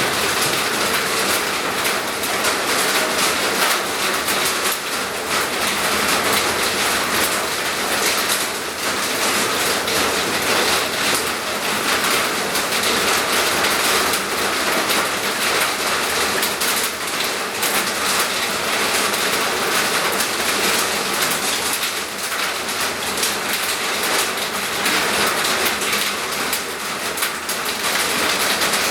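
Steady, loud rain falling.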